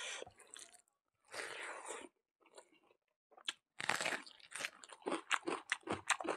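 Two short hissing sounds, then about three and a half seconds in a bite into a raw red onion, followed by rapid crunchy chewing of the onion, several crunches a second.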